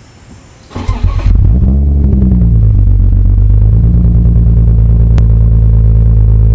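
Cold start of a BMW E36 328i's inline-six, breathing through a custom headers-back race exhaust. A brief starter crank comes about a second in, then the engine catches, its pitch wavers briefly, and it settles into a loud, steady fast idle.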